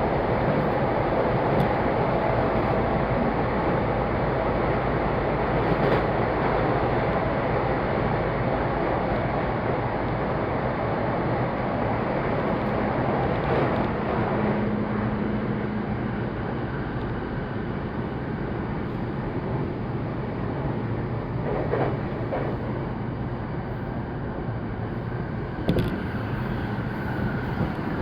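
Electric commuter train running between stations, heard from inside the passenger car: a steady rumble of wheels on rail with a brief low hum near the middle and a few sharp clicks in the second half, the level easing slightly after the middle.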